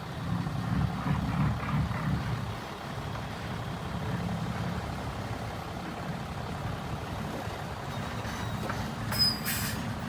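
Diesel engine of heavy earthmoving machinery running under load with a steady low rumble, heaviest in the first couple of seconds. A short, sharp high hiss or squeal sounds near the end.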